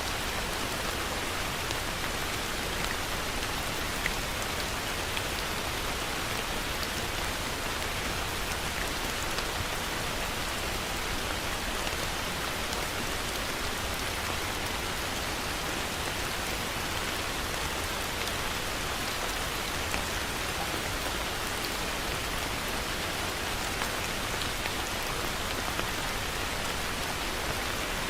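Heavy rain falling steadily, a dense even patter with a few sharper drop hits here and there.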